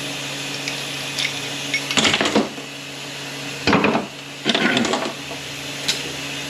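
Metal automatic-transmission internals (hub, thrust bearing and race) clinking and scraping as they are handled and set down on a workbench: a few light ticks, then three short clatters, over a steady background hum.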